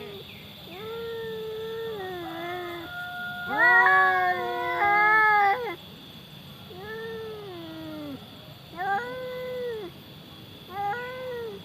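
Domestic cats caterwauling in a standoff: long, drawn-out yowls that rise and fall in pitch, with two cats calling over each other at the loudest point midway, then shorter yowls near the end.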